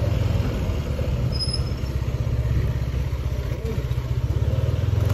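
Steady low rumble of a vehicle in motion, with a fast fluttering pulse.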